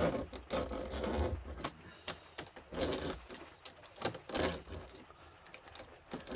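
Metal scraping, rubbing and irregular clinks as a humidifier's copper-aluminium radiator is worked at by hand to get into it: a longer rough scrape near the start, then scattered short scrapes and clicks.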